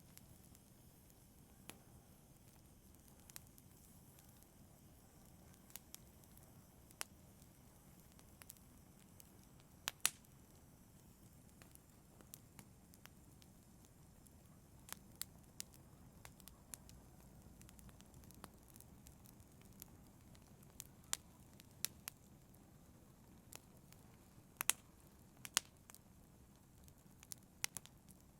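Wood fire crackling softly in a fireplace: irregular sharp pops and snaps over a faint steady hiss of burning, a few louder pops around ten seconds in and again in the last few seconds.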